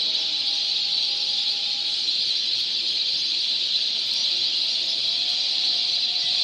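Dense, steady high-pitched chorus of calls from a large flock of migratory birds, thousands calling together so that no single call stands out.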